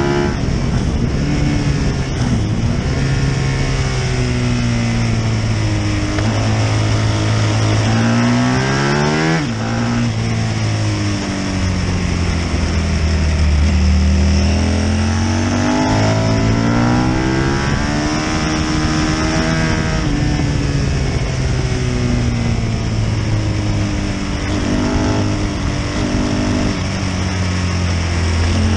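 Britten V1000's 1000 cc V-twin racing engine at speed, heard onboard with wind rushing past the microphone. The engine note climbs and falls as the throttle is worked, dropping suddenly in pitch at gear changes, once about nine seconds in and again about twenty seconds in.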